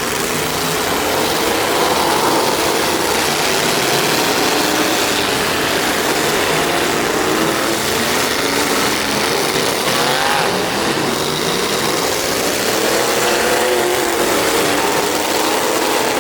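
Demolition derby trucks' engines running and revving, their pitch rising and falling, with a few quick rev-ups near the middle and again near the end.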